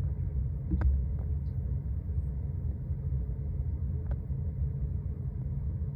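Low, uneven rumble of air forced through a wall cavity behind a hot water unit by a downstairs range hood's exhaust fan, with a couple of faint clicks.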